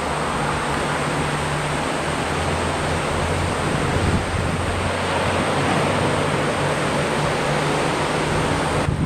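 Steady rush of ocean surf from typhoon swell, with a low steady hum underneath.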